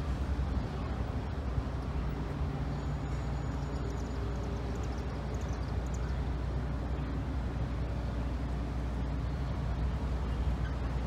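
Loaded coal hopper cars of a long freight train rolling along street-running track, a steady low rumble of steel wheels on rail.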